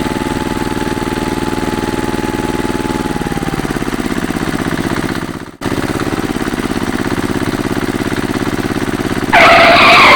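Small engine running with a rapid, even putter. It breaks off for a moment about five and a half seconds in, then resumes, and near the end a loud harsh noise cuts in over it.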